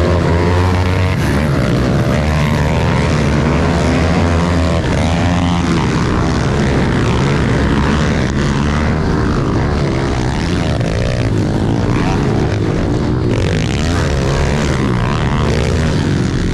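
Small pit bike engines revving hard and rising and falling in pitch, during a motocross race.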